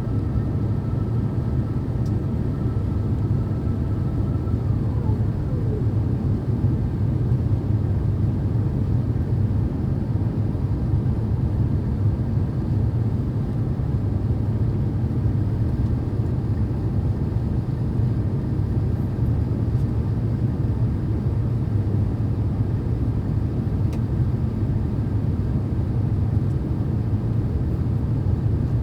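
Steady cabin rumble of an Airbus A350-900 in flight, the sound of airflow and its Rolls-Royce Trent XWB engines heard from inside the cabin. A faint high whine slides down in pitch about five seconds in.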